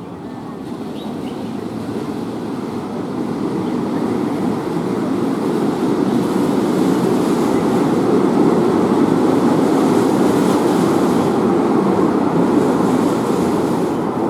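A rail vehicle running along the track: a steady noise that grows louder over the first several seconds, then holds.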